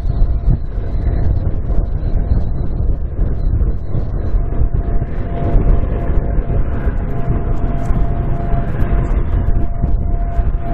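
Freight train running past, a deep, uneven rumble, with a steady whine setting in about four seconds in.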